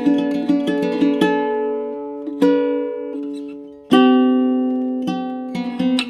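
Baritone ukulele with an ancient sitka spruce top and pernambuco back and sides, played solo. It starts with quick picked notes that ring out and fade. About four seconds in, a chord is struck and left to ring, and quick picking resumes near the end.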